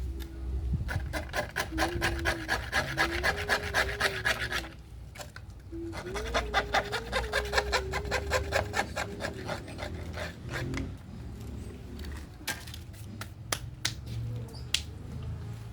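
Rapid, rhythmic scraping on wood, as a tool rasps or cuts it, in two runs of about four and three seconds, with a wavering tone beneath; a few sharp clicks follow near the end.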